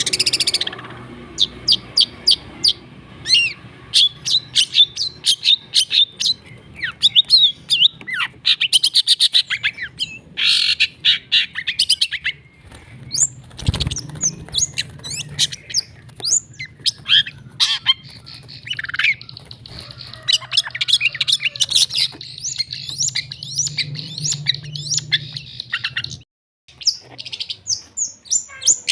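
Long-tailed shrike (cendet) singing continuously: a fast, varied run of chirps, trills and harsh squawking notes. A steady low hum runs beneath until near the end, and there is one thump about halfway through.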